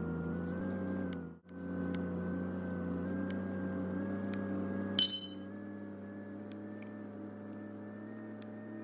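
Steady hum of a car's idling engine heard inside the cabin, dropping out briefly about a second and a half in. About five seconds in, a short, high electronic chime from a smartphone sounds over it.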